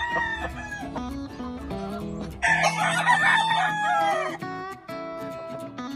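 A gamefowl rooster crows once, loudly, for about two seconds starting about two and a half seconds in, its call dropping in pitch at the end. Background music plays throughout.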